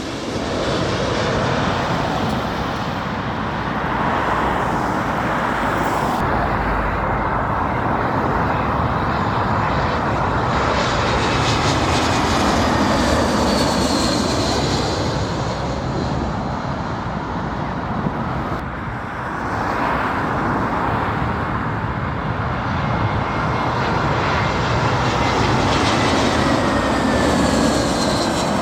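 Jet engines of a Singapore Airlines airliner on its landing approach: a long, loud roar that swells, dips briefly and swells again, with thin high whines slowly falling in pitch.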